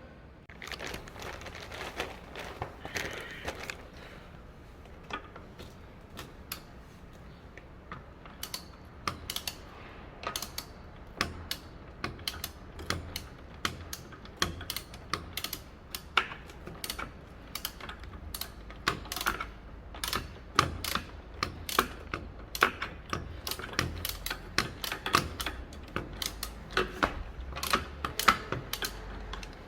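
Irregular runs of short, sharp clicks and taps from hand tools working on a scooter during a DIY engine oil change, more frequent in the second half.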